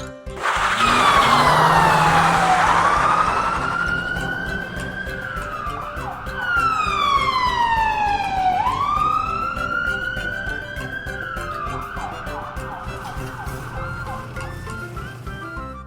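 Siren wailing slowly, its pitch falling, rising, holding and falling again in two long sweeps, starting loud about half a second in.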